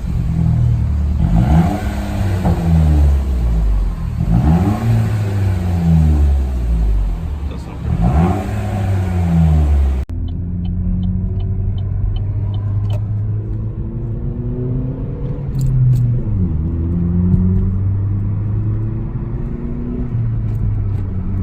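2012 Chevy Cruze Eco's 1.4-litre turbocharged four-cylinder with muffler and resonator deleted (straight-piped exhaust), revved up and down in several blips. After a sudden cut about halfway through, it runs as a steadier low drone with a couple of gentle rises in revs.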